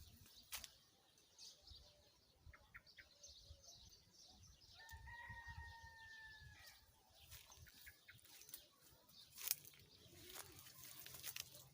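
A rooster crows once, faint, a single call of about two seconds around the middle, among scattered faint clicks and rustles.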